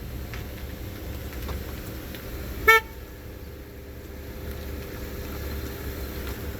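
A single short beep about two and a half seconds in, over a steady low rumble.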